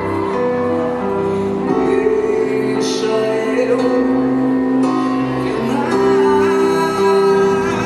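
Live band playing a slow song, with long held notes between the sung lines.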